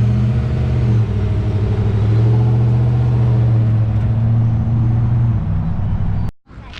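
Pickup truck driving, heard from inside the cab: a loud, steady low engine and road hum that cuts off abruptly near the end.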